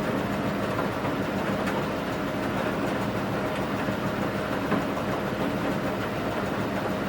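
Washing machine running mid-program: a steady motor hum and rumble from the turning drum, with faint light ticks.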